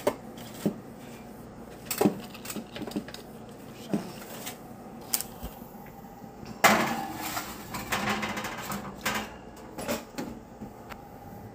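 Scattered sharp clicks and knocks of kitchen handling, with a louder clatter lasting about a second near the middle.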